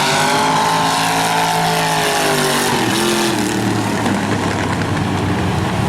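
Demo race cars' engines running on the track, one engine rising in pitch and then easing off over the first three seconds, with rougher engine noise after.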